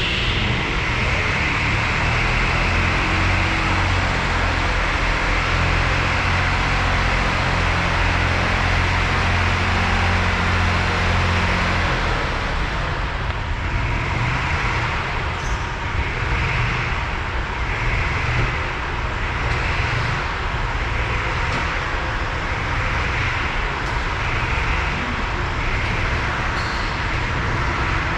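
Perkins 540 V8 diesel engine of a 1958 Fordson Major tractor running steadily. About twelve seconds in, its deep low note falls away, and a regular pulsing, roughly once a second, comes through above it.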